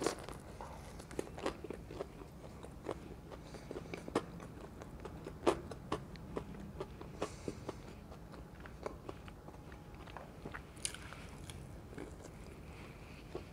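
Close-miked eating of crispy green chilli pakoras (fried chillies in gram-flour batter): wet chewing with scattered sharp crunches of the fried batter. The loudest crunch comes about five and a half seconds in.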